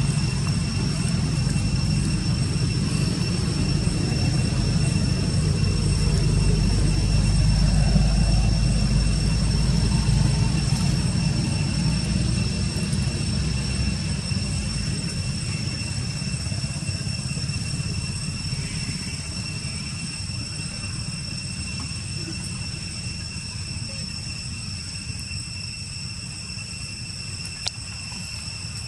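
Distant engine rumble, deep and steady, swelling during the first third and then slowly fading away. A steady high whine at several pitches runs underneath.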